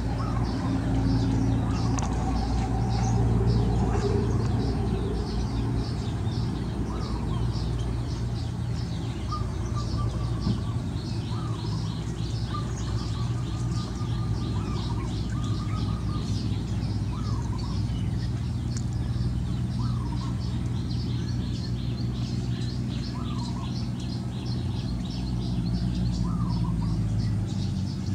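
Birds chirping: a dense run of quick, high chirps with occasional short, lower calls, over a steady low hum.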